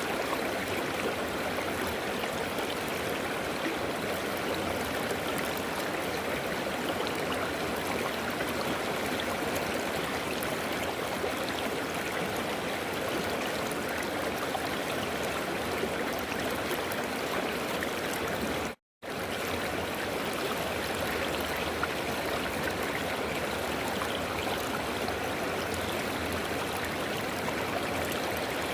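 River water flowing steadily, an even rushing with small gurgles. The sound cuts out completely for a split second about two-thirds of the way through.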